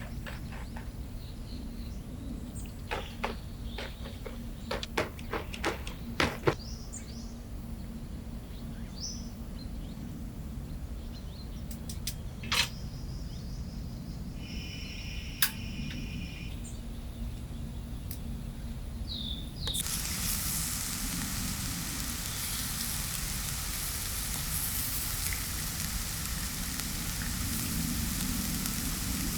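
Scattered sharp clicks and knocks over a low steady hum, with a brief chirp near the middle. About two-thirds of the way through, a steady hiss of heavy rain suddenly takes over.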